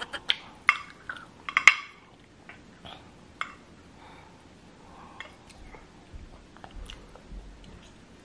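A metal fork clinking and scraping on a plate while noodles are twirled, with a few sharp clinks in the first two seconds, then fainter scattered clicks of eating.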